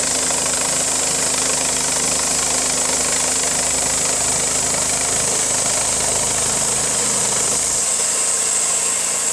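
An engine running steadily; its deepest rumble drops away near the end.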